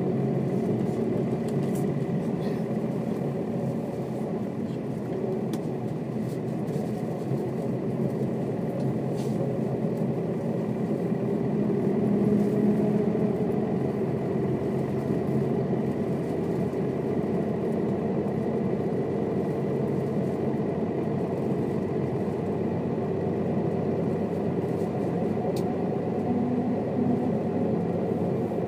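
Mercedes-Benz O407 city bus's diesel engine running steadily while the bus drives in town, growing a little louder about twelve seconds in.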